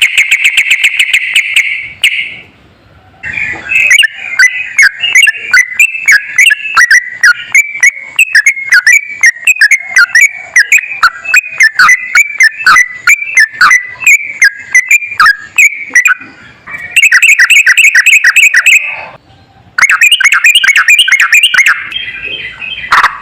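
Yellow-vented bulbul (trucukan) singing long rapid-fire runs of quick whistled notes. The song comes in three bouts, with short breaks about two and a half seconds in and about nineteen seconds in.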